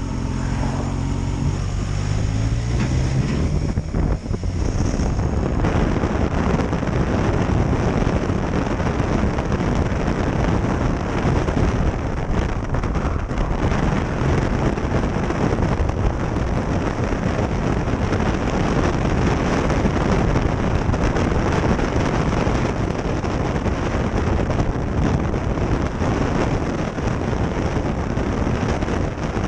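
Motorcycle engine, the Kawasaki H2 SX SE's supercharged inline-four, pulling away with its pitch stepping up in stages over the first few seconds. From about four seconds in, heavy wind rush on the microphone at riding speed covers most of the engine.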